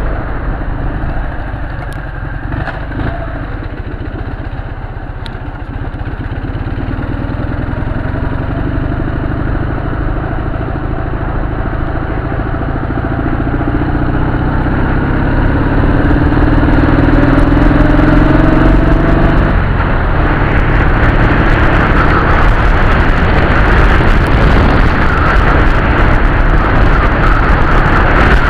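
Dnepr MT flat-twin motorcycle engine under way, its pitch climbing steadily as the bike accelerates, then dropping abruptly about two-thirds of the way through, as at a gear change, after which it runs louder with more rushing noise.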